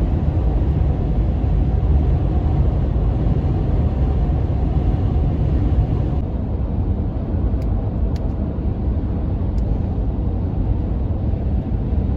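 Steady low rumble of a car on the move: road and engine noise, with the higher hiss dropping off about six seconds in and a few faint ticks after that.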